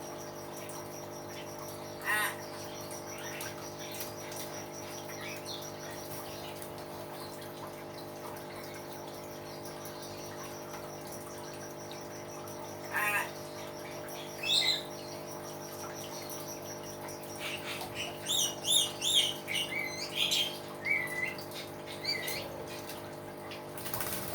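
Hill myna (beo) calling: a few loud single calls well apart, then a quick run of whistles and chirps in the last third. A steady high-pitched tone and a low hum run underneath.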